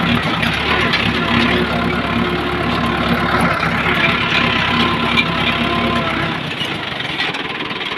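Tractor engine running steadily, its low rumble dropping away about six seconds in.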